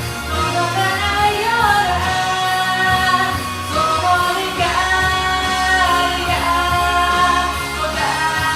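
A woman singing a Japanese pop ballad over a karaoke backing track, holding and gliding between long sung notes.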